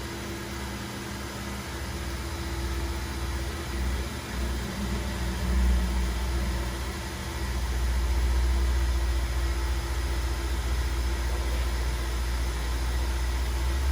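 Commercial snow machine running, its blower giving a steady hum over a wash of air noise. A low rumble underneath grows louder about halfway through.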